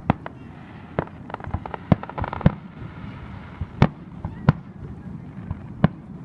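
Fireworks display: aerial shells bursting in sharp bangs every second or so, with a quick run of smaller pops and crackle between about one and two and a half seconds in.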